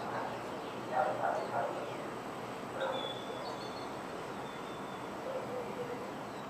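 Birds calling in the open: a few short calls about a second in, then a thin high whistled note around the middle, over steady background noise.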